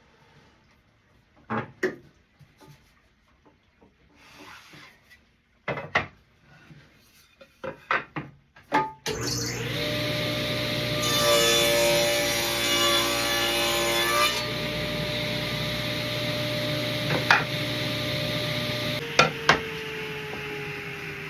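Wood pieces knocked and handled, then a table saw starts up and runs, its blade cutting through wood for about three seconds. The motor is switched off and its pitch sinks slowly as the blade spins down.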